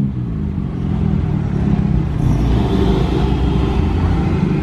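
Car engine running at low speed with a steady, loud low rumble.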